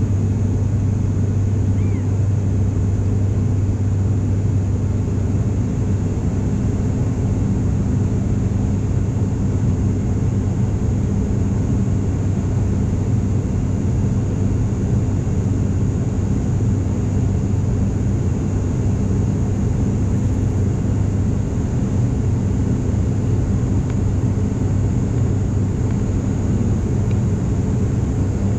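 Steady drone of an ATR 42-500's twin Pratt & Whitney PW127E turboprops and six-bladed propellers, heard from inside the passenger cabin in flight. It is a deep hum with a constant pitch and a faint high whine above it.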